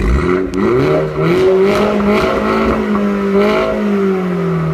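MINI John Cooper Works engine revved through its sport exhaust in "crazy mode". The revs climb quickly, hold high for a couple of seconds, then ease slowly back down, with several sharp cracks along the way.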